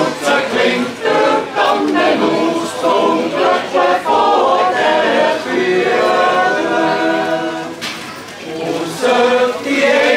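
Swiss yodel choir singing a cappella in several voice parts, in long held phrases, with a short break about eight seconds in before the voices come back in.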